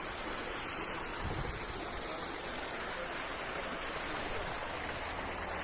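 Steady rushing noise of flowing water, like a stream.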